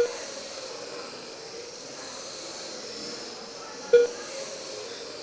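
Electric RC racing trucks with 21.5-turn brushless motors running laps: a steady hiss with a wavering high whine. Two short beeps sound about four seconds apart, one at the start and one near the end.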